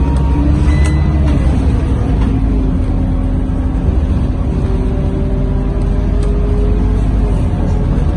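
Scania K230UB bus heard from inside while under way: its five-cylinder diesel engine and drivetrain running with a heavy low rumble and steady hum. About halfway through, a faint whine rises slowly in pitch.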